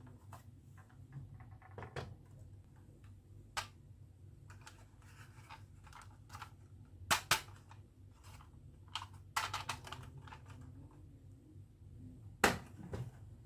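Marbles clacking and knocking along a wooden marble run: irregular sharp clicks, with louder clacks about halfway through and near the end.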